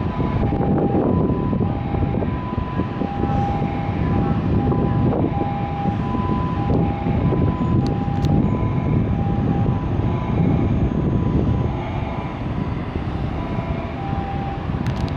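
Train at a station platform, running with a loud, steady low rumble. An electronic two-tone signal alternates between two pitches through most of it.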